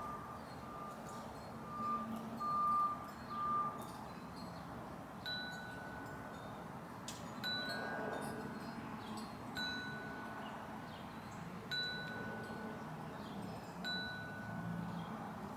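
Clear, steady-pitched chime-like ringing: a tone broken into short notes for the first few seconds, then one higher ringing note about every two seconds, each lasting about a second.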